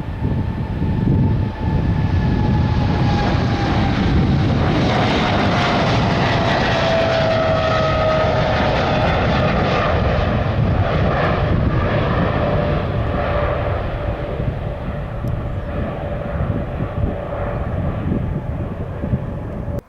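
Boeing 777-300 twin-jet airliner at takeoff thrust, passing by with a loud steady rumble and a whining engine tone that slowly falls in pitch as it goes past. The sound cuts off suddenly at the end.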